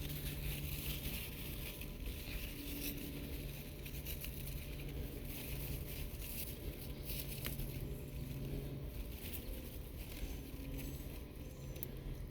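Faint rustling and scuffing, with a low hum that comes and goes.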